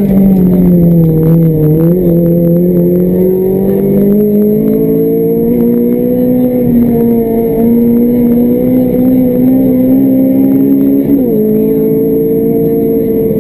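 Honda Civic rally car's B16B 1.6-litre VTEC four-cylinder engine, heard from inside the cabin, pulling at high revs with its pitch climbing slowly, then dropping suddenly about eleven seconds in before holding steady.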